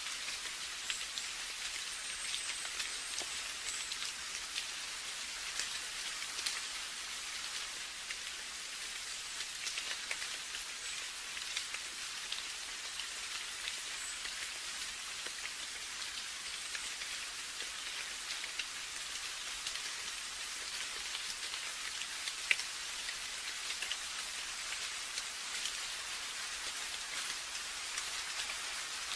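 Steady rain: a constant hiss of falling rain with many separate drops ticking through it.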